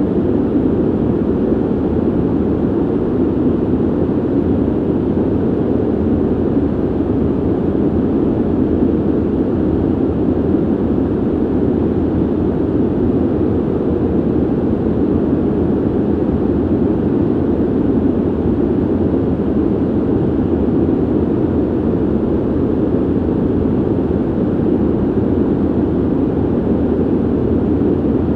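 Ventilation noise: a steady, even rush of air, deep and muffled, with its weight low and little hiss, unchanging throughout.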